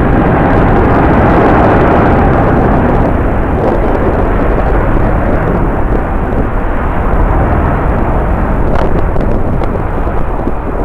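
Jet airliner engine noise, a steady loud rumble mixed with strong wind buffeting the microphone, easing a little near the end.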